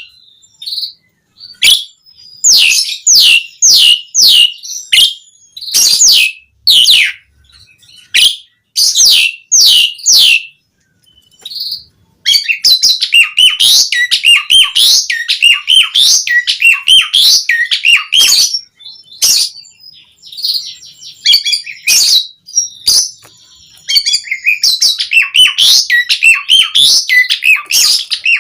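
Asian pied starling (jalak suren) singing: loud, sharply falling whistles in quick runs, then from about halfway through a dense, continuous chattering warble.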